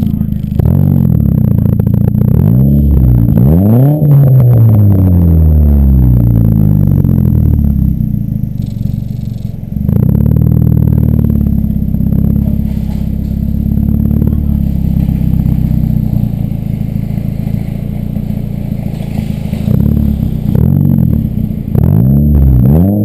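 2007 Ford Focus four-cylinder engine through an aftermarket BWR exhaust, driving with an automatic transmission. The engine note climbs twice in quick succession a few seconds in, sinks slowly as it eases off, runs steadily at cruise, then climbs again near the end.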